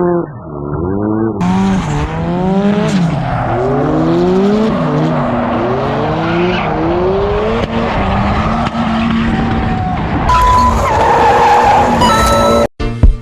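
Drift car's engine revving hard in repeated rising climbs while the tires squeal and skid through slides.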